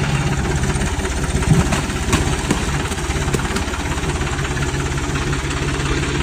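Tractor diesel engine running steadily at idle, with a few sharp clicks or knocks about two seconds in.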